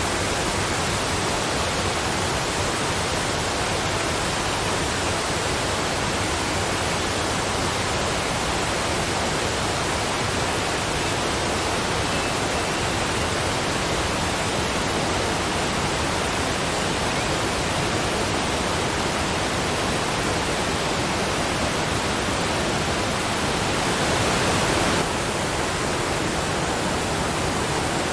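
Waterfall water falling in a steady, even rush, briefly a little louder about 24 seconds in before dropping back abruptly.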